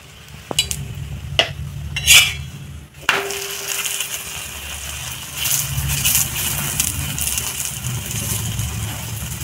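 Paratha frying in ghee on a hot iron tawa, with a metal spatula clicking against the pan a few times. About three seconds in, a steady sizzle sets in and runs on as the paratha is flipped and pressed down.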